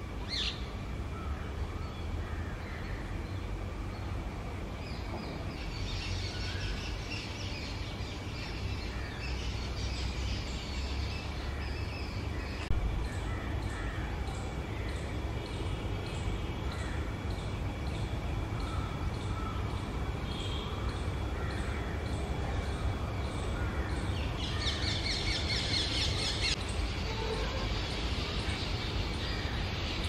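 Birds calling outdoors in bursts of rapid, high-pitched chatter, loudest around a quarter and again three quarters of the way through, with scattered single calls between. A steady low rumble of background noise runs underneath.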